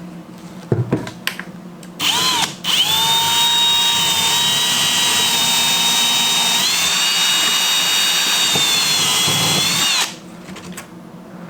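Power drill running: a brief burst, then a steady whine for about seven seconds that steps up slightly in pitch partway through and cuts off. A few knocks about a second in, before the drill starts.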